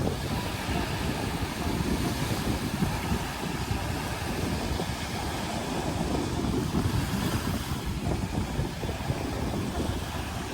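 Strong wind buffeting the microphone: a steady, rough rumble.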